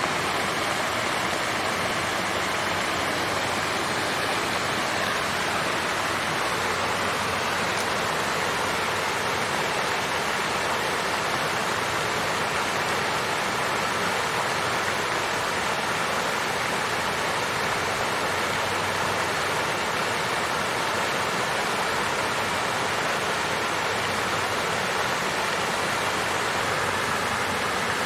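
Water fountain flowing: a steady, even splashing of falling water.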